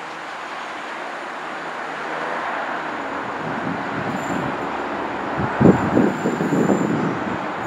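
London Midland Class 172 Turbostar diesel multiple unit approaching, its engine and wheels on the rails growing steadily louder. In the last couple of seconds the wheels clatter irregularly over the track, with a faint high whine above.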